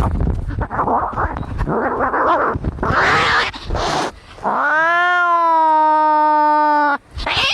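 Angry cats caterwauling: a rough, noisy stretch of growls and hisses, then a little over four seconds in one long yowl that rises, is held steady, and cuts off sharply.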